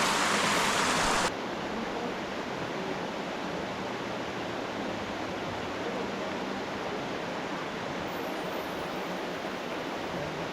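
Waterfall rushing: a steady hiss of falling water that drops suddenly in loudness a little over a second in, then runs on evenly.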